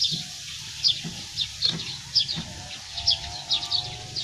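A small bird chirping over and over, about two to three short high chirps a second, with a few soft knocks beneath.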